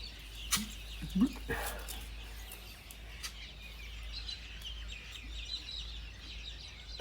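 Birds chirping in the background, a run of small repeated chirps, with a few sharp clicks and a couple of short rising calls in the first two seconds.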